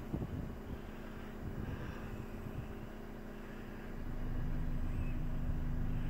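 Parked vehicle's engine idling, heard from inside the cab as a steady low hum that grows louder about four seconds in.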